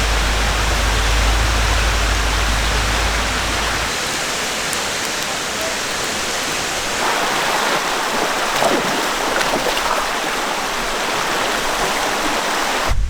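Mountain stream water flowing over rocks, a steady rushing; the low rumble drops away about four seconds in.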